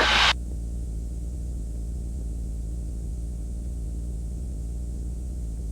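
Cessna 140's light-aircraft piston engine droning steadily in the climb, heard through the cockpit intercom, with a short burst of noise right at the start.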